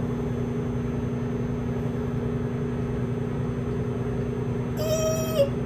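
A steady, low machine hum with a constant tone. A short, high pitched sound comes about five seconds in.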